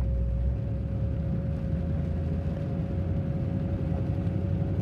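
Duramax LB7 6.6-litre turbo-diesel V8 running steadily, with a thin steady whine above the engine note; it sounds really healthy.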